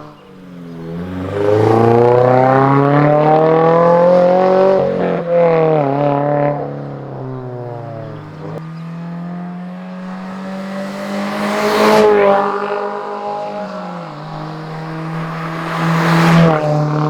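Toyota GR86/Subaru BRZ's FA24 flat-four running through an AWE Track Edition cat-back exhaust, essentially a straight pipe with a single resonator. The engine note climbs as it accelerates, drops back at shifts about five and eight seconds in, then holds and swells louder around the middle and again near the end.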